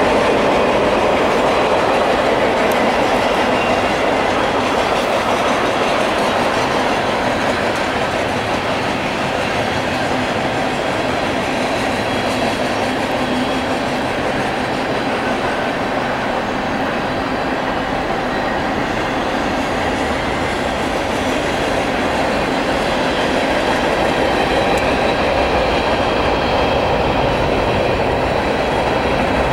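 CSX mixed freight train's cars (tank cars, boxcars and flatcars) rolling past, a steady noise of steel wheels running on the rails.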